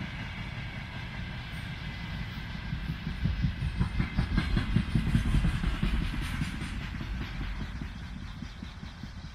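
Freight train of container wagons rolling past, its wheels clattering rapidly over the rails. It is loudest around the middle and fades toward the end.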